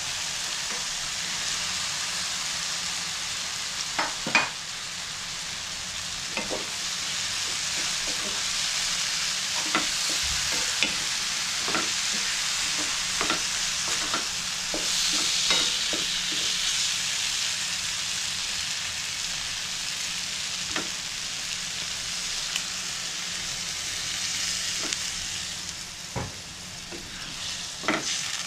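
Beef chunks and kurma spice paste sizzling in a frying pan while a wooden spatula stirs them, with scattered knocks and scrapes of the spatula against the pan.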